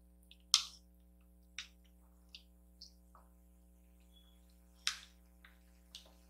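Close-miked eating sounds while chewing kimchi noodles: a string of short, wet mouth clicks and smacks. The loudest comes about half a second in and another near five seconds.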